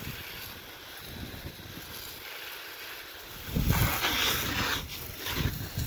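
Garden hose spraying water onto a dirt bike's engine, a steady hiss that grows louder for about a second a little past the middle, with wind buffeting the microphone.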